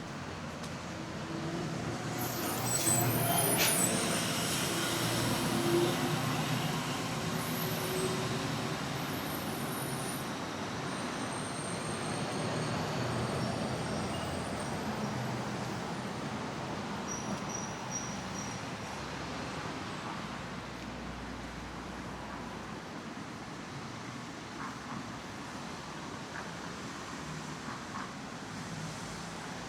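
Road traffic going by as a steady hum, swelling for a few seconds near the start as a heavy vehicle passes, with brief high brake squeals or hisses.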